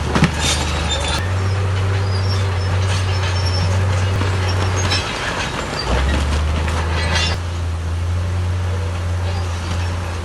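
Heavy diesel earthmoving machine running, its engine note stepping up and down a few times, with clattering and scraping of rock and metal over it that dies away about seven seconds in.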